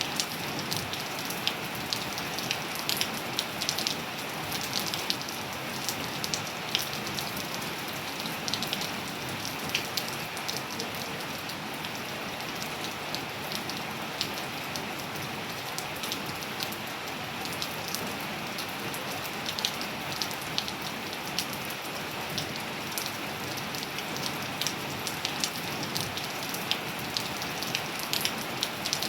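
Steady rain falling on surfaces, an even hiss with many close, sharp drop impacts ticking over it.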